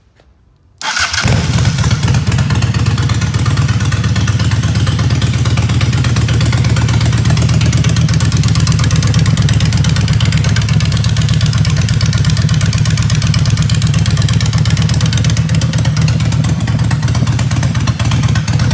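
Custom motorcycle engine starting about a second in, after sitting unused for a while, and then running loud and steady with a deep, even exhaust note.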